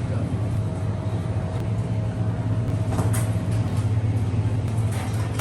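Steady low running rumble of a road vehicle, with a faint thin tone above it that stops a little past halfway and a couple of light clicks.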